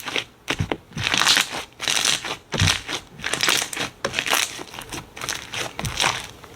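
Slime being pressed and squeezed by hand, an uneven run of squishing bursts with sharp clicks.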